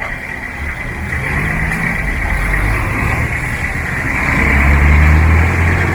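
A motor vehicle's engine running close by, growing louder to a peak about five seconds in and then easing, over steady street noise.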